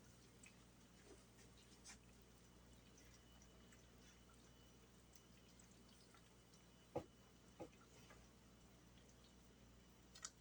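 Near silence, broken about seven seconds in by two soft plops a little over half a second apart: pieces of dumpling dough dropped into boiling chicken broth.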